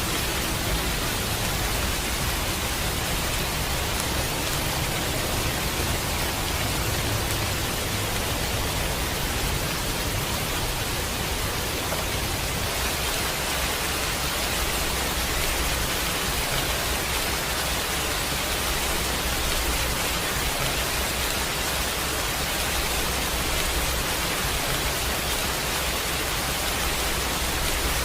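Steady heavy rain, an even wash of hiss with a low rumble underneath.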